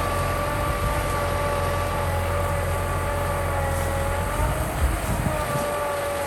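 Kubota M6040 tractor's diesel engine running steadily while plowing, a low drone with a steady whine above it.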